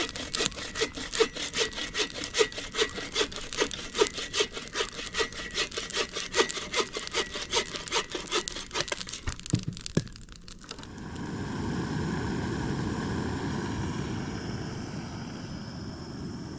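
Hand saw cutting firewood, quick back-and-forth strokes about three a second. The sawing stops about two-thirds of the way through and gives way to a steady low drone.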